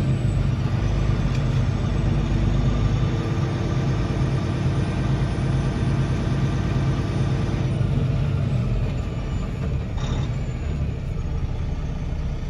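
Semi-truck diesel engine running steadily with a low rumble, easing slightly about eight seconds in.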